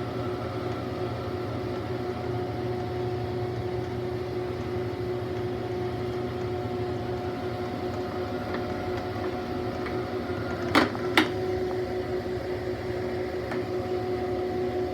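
Small lathe running on a Worthington All-Drive variable-speed drive with a steady mechanical hum. Two sharp clicks come close together about eleven seconds in.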